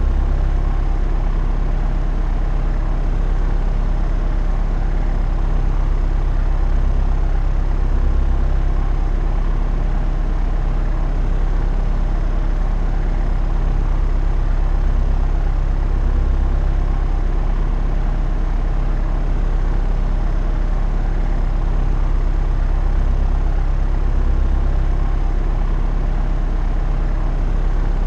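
Propeller aeroplane in steady cruise flight: a continuous low engine and propeller drone with even tones, gently swelling and easing every few seconds.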